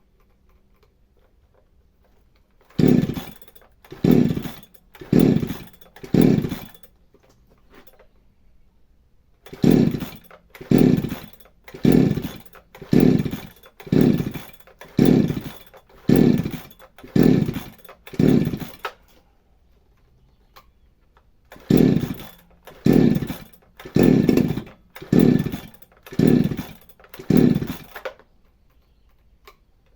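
Chainsaw sounding in short, loud bursts about one a second, each dropping in pitch, in three runs of about four, nine and six, with quiet between the runs.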